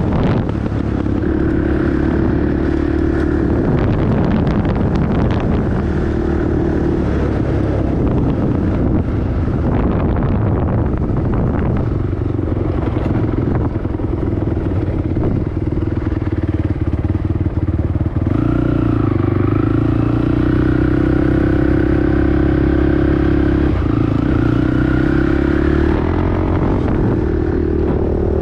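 Sport quad's single-cylinder four-stroke engine running steadily while riding along a dirt road. Its pitch shifts with the throttle a few times and holds higher through the second half.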